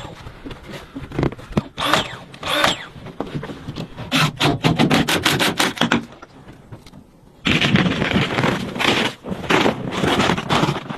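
Wood being worked with tools: bursts of scraping and rubbing strokes, a quick run of short sharp strokes in the middle, then a long dense stretch of scraping near the end.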